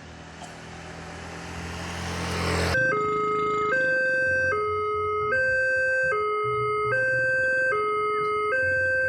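Electronic level-crossing warning alarm sounding a two-tone signal that alternates between a higher and a lower tone about every 0.8 s, warning of an approaching train. Before it, a rush of noise swells for nearly three seconds and cuts off abruptly as the alarm starts.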